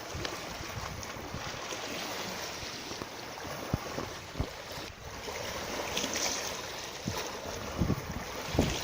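Steady rush of moving water with wind noise on the microphone, and a few low thumps, most of them near the end.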